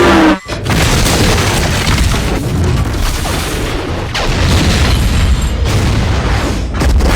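Film sound effects of a train derailment: a continuous barrage of booming explosions and crashing, tumbling freight cars, with a brief drop-out about half a second in.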